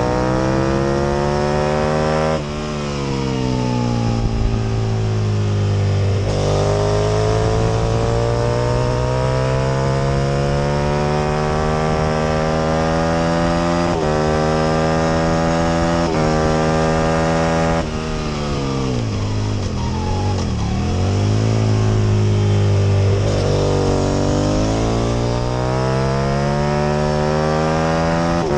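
Aprilia RSV Mille R's 998 cc V-twin engine at racing speed, its pitch climbing through the gears with sudden drops at each upshift. About two thirds of the way through it falls away under braking, with short blips on the downshifts, then climbs again as the bike accelerates hard.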